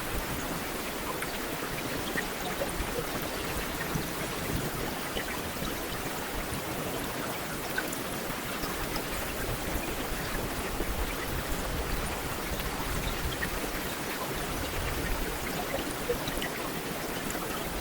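Heavy rain falling steadily: a dense, even hiss with scattered single drops ticking through it.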